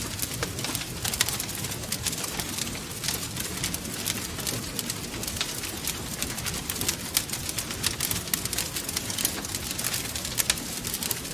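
Wood fire crackling in a fireplace: frequent small, sharp pops and snaps over a steady low rush of burning.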